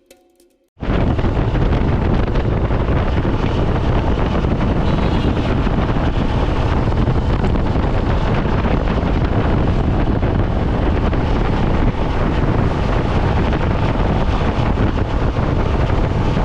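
Wind buffeting the microphone on a motorcycle ride at highway speed: a loud, steady rumble of wind noise that cuts in abruptly about a second in.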